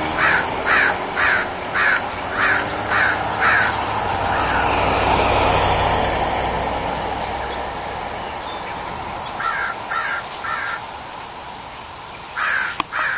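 Big black birds in a tree giving harsh repeated calls, about two a second, for the first few seconds, then again in short runs later on. In the middle a broad rushing noise with a low rumble swells and fades, like a vehicle passing on the street.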